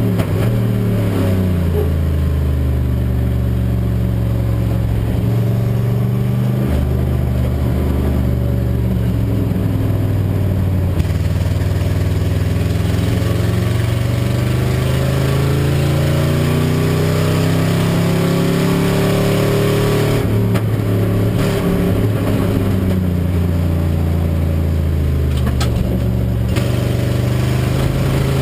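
Race car engine heard from inside the stripped cockpit, pulling hard under acceleration. The revs drop near the start, climb steadily for a long stretch, fall again about two-thirds of the way through and climb once more. The engine is said to be running on "6 1/2 cylinders", with one cylinder not firing properly.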